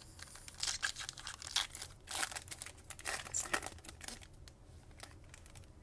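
A trading-card pack wrapper being torn open and crinkled, a run of crackling and ripping over about four seconds that then dies away.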